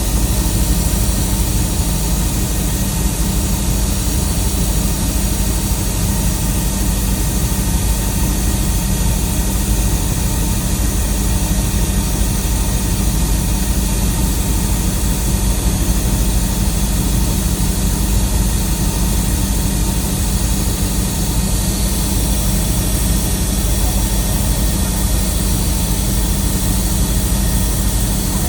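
Helicopter in flight heard from inside the cabin: a loud, steady drone of turbine engine and rotor with several held tones, unchanging throughout.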